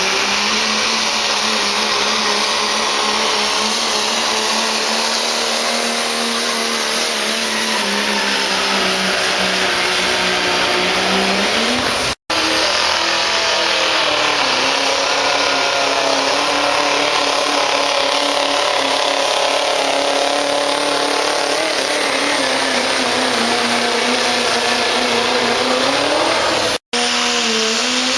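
Modified diesel pickup trucks at full throttle pulling a sled, the engine held at a high, fairly steady pitch under a dense hiss, sagging slightly before each break. The sound drops out for an instant twice, about twelve seconds in and near the end, as it jumps between pulls.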